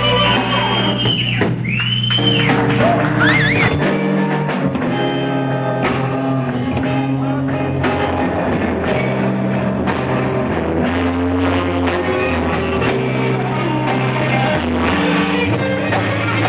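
Blues-rock band playing: guitar over bass and drum kit with a steady beat. Near the start there are several high notes that bend up and down in pitch.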